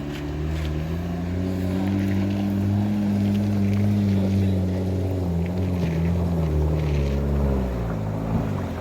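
Diesel truck engine labouring under heavy load on a steep uphill grade. Its pitch rises over the first couple of seconds, holds, then drops in steps near the end.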